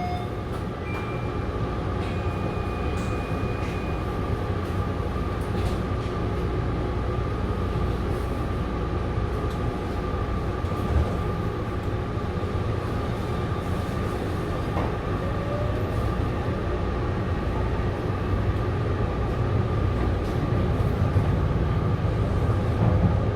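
Taipei Metro Tamsui–Xinyi line train running along the track between stations: a steady low rumble with a steady whine, growing slightly louder near the end.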